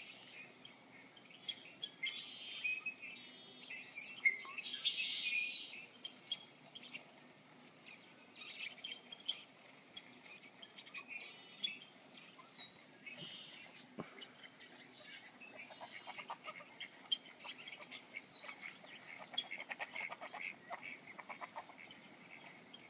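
Birdsong from a cat-entertainment bird video played through a Nexus 7 tablet's small speaker: many short chirps and tweets, with a few quick falling whistles, thin and high with almost nothing low.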